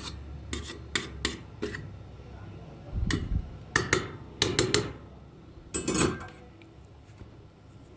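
Small hard parts and tools being handled in a toy repair: a string of sharp clicks and clinks, a dull knock about three seconds in and a short scrape about six seconds in.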